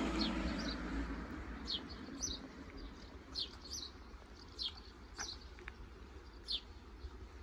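Small birds chirping: short, high, falling chirps, repeated every half second to a second. A passing car's road noise fades away over the first second or two.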